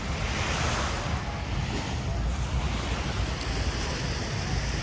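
Sea waves breaking and washing on the shore, with a swell of surf in the first couple of seconds. Wind rumbles on the microphone.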